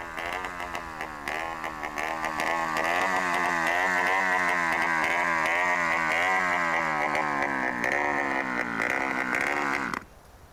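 Dirt bike engine growing louder as the bike rides up, then running with a wavering pitch; the sound cuts off suddenly near the end.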